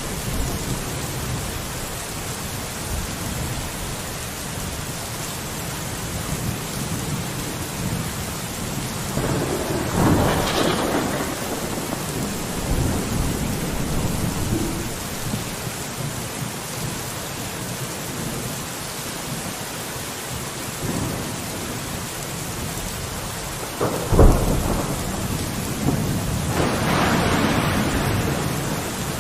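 Steady rain falling on a window, with louder surges of rain about ten seconds in and again near the end, and one sharp loud crack about 24 seconds in.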